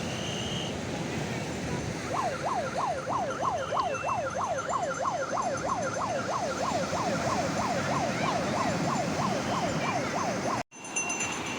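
A siren-like yelping wail, about three rapid up-and-down sweeps a second, starts about two seconds in over the steady rush of surf. It fades a little and cuts off with a brief dropout near the end, after which the surf goes on.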